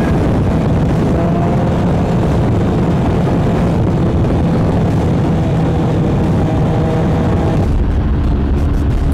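BMW R1200GS LC's boxer twin running at motorway speed under the rush of wind, its note climbing slowly as it accelerates; the sound shifts about three-quarters of the way through.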